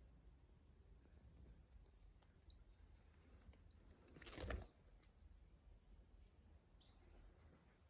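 California quail chicks peeping: a quick run of short, high chirps about three seconds in, then a brief swish of noise, and a few faint scattered peeps afterwards.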